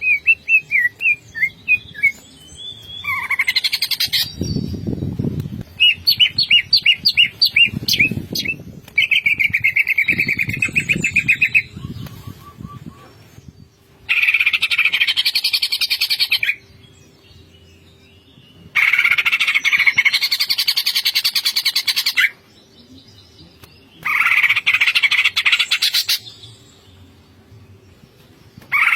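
Green leafbird (cucak ijo) singing loudly: quick whistled notes and a rattling trill, then repeated dense, harsh bursts of chattering song about two to three seconds long with short pauses between them. Low rumbling runs underneath in the first half.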